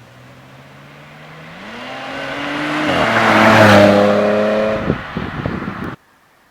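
Car engine accelerating hard and growing loud, its pitch climbing and then dropping sharply about three seconds in, as at a gear change. Near the end the note falls away into a few sharp pops, and the sound cuts off suddenly.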